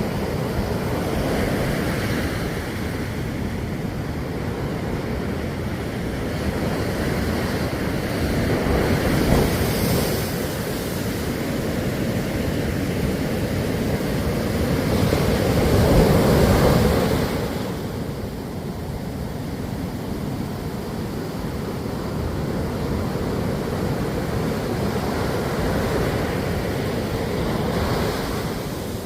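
Ocean waves washing onto the shore, a continuous surf with louder surges about nine seconds in and again around sixteen seconds, the second the loudest.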